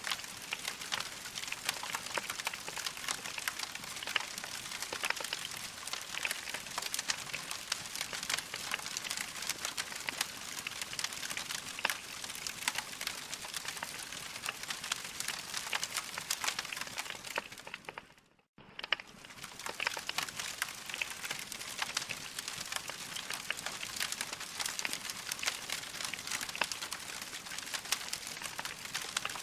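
Wood fire crackling: a dense, steady run of small sharp pops and snaps over a soft hiss. About 18 seconds in it fades out briefly to near silence and comes back.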